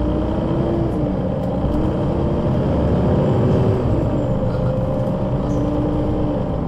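Solaris Urbino 12 III city bus's engine and Voith automatic gearbox under way, the engine note rising and dropping back in steps as it pulls through the gears. The sound is loudest about three and a half seconds in, then eases off a little.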